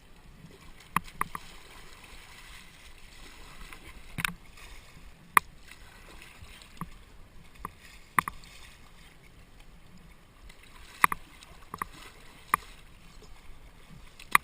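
Kayak paddling: about ten sharp, irregularly spaced knocks and splashes from paddle strokes over a faint, steady wash of river water.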